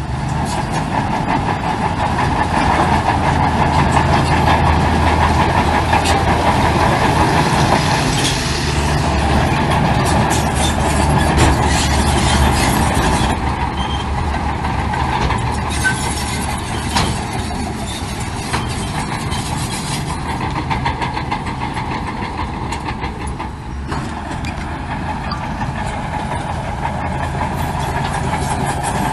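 Heavy diesel engine of earthmoving machinery running steadily under load, with faint clanks. It is a little louder for the first half, then eases somewhat.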